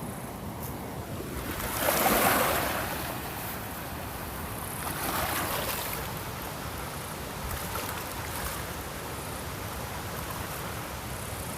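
Ocean waves washing onto a shore over a steady hiss of surf, one wave breaking loudest about two seconds in, a softer one around five seconds, and a small one near eight seconds.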